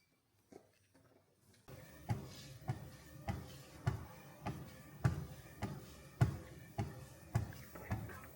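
Footsteps walking at a steady pace, nearly two dull steps a second, starting about two seconds in.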